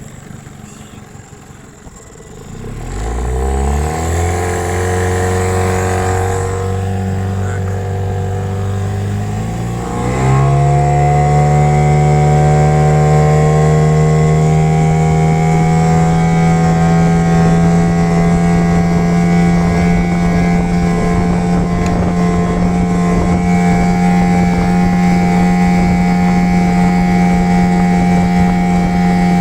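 Mercury 10M outboard motor, boosted to 15 hp, opened up on a fully loaded boat for a speed run. Its pitch climbs over a couple of seconds and holds, then climbs again about ten seconds in to a higher note that stays steady at top speed.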